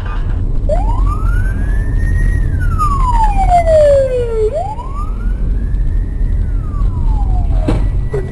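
Emergency vehicle siren wailing in two slow rise-and-fall cycles over steady low vehicle and road rumble. The siren cuts off abruptly near the end.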